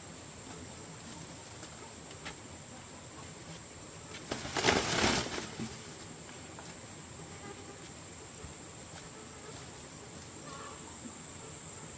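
A loud burst of rustling or flapping, lasting about a second, begins about four seconds in. It sits over a steady high-pitched hum.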